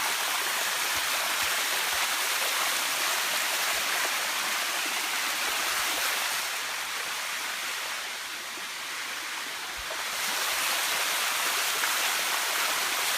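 Steady rush of water cascading down the Sticky Waterfalls' limestone rock, dropping a little for a few seconds midway before coming back up.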